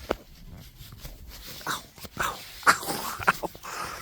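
A dog's noises: a string of short, sharp sounds, the loudest nearly three seconds in, then a thin, high, drawn-out sound starting near the end.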